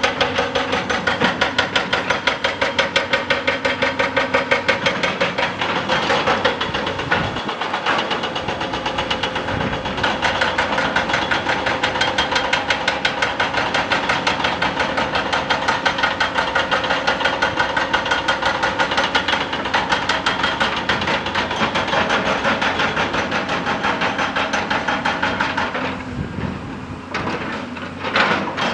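Excavator-mounted hydraulic rock breaker hammering rock in a rapid, steady stream of blows, easing off briefly near the end before resuming.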